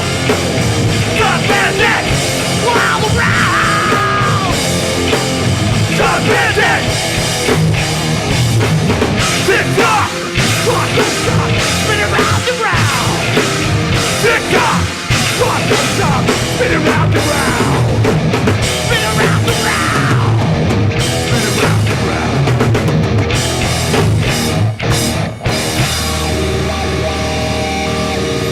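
Hardcore punk band playing live: distorted electric guitars, bass and drum kit in a loud, fast passage with little or no singing. Near the end the drums drop away and a guitar is left ringing.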